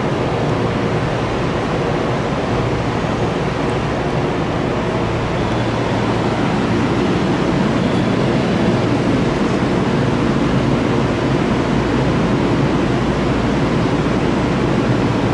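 Steady running noise inside the front car of a JR West 323 series electric train travelling along the track: an even, low rumble with hiss.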